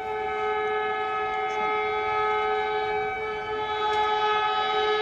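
Train horn held in one long, steady blast of two notes sounding together.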